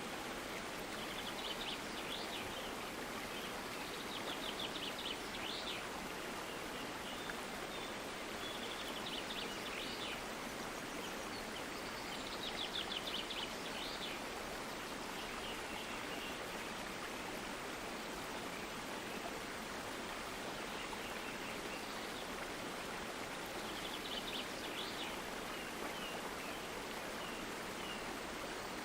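Steady flowing water, as of a stream, with a small bird singing short trilled phrases over it every few seconds.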